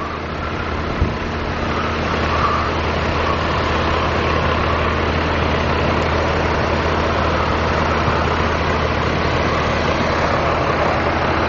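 Steady roadside vehicle noise: an engine running with a constant hiss, and one short click about a second in.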